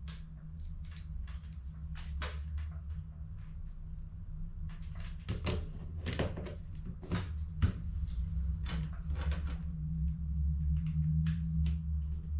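Handling of HP CE285A toner cartridges during refilling: a run of irregular clicks, knocks and scrapes, over a steady low hum.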